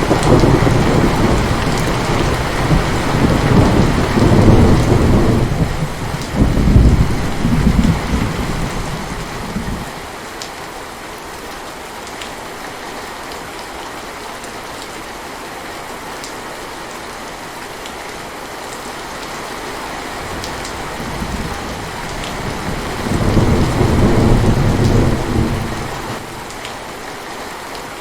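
Intense steady rain with rolling thunder. A long thunder rumble fills roughly the first ten seconds and swells twice; then there is only rain, until another roll of thunder comes a few seconds before the end.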